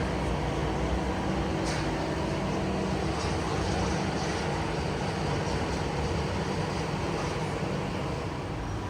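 A cleaning machine's motor running steadily: a constant hum with a rushing noise over it, unchanging throughout.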